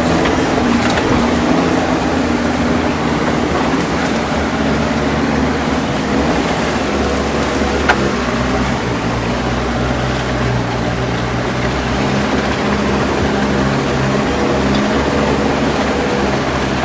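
Engine of a lever-steered tracked swamp vehicle running steadily under way, with a dense rumble of travel. A single sharp knock about eight seconds in.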